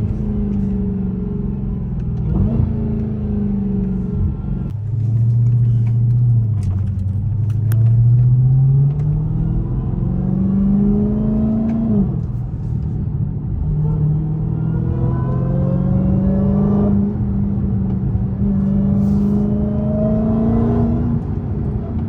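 Supercharged 6.2-litre HEMI V8 of a Dodge Charger Hellcat Redeye running with its mid mufflers deleted, pulling through the gears on a drive. The exhaust note climbs steadily, then drops sharply at each upshift, several times over.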